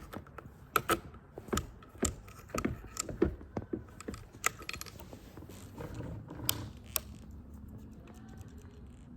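Irregular sharp mechanical clicks and knocks, about a dozen over some seven seconds, then only a faint steady background.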